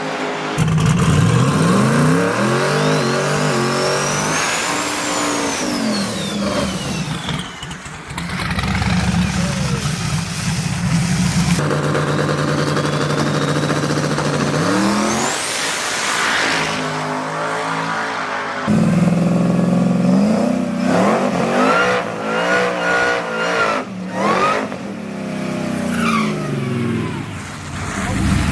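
Drag-race vehicle engines revving and accelerating hard in several short clips cut together, the engine note climbing in pitch with each run. High whines rise in pitch over the engine sound.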